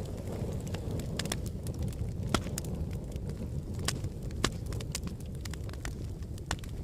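Wood fire burning in a fireplace: a steady low rumble of the flames with irregular sharp crackles and pops, the loudest a little over two seconds in and again at about four and a half seconds.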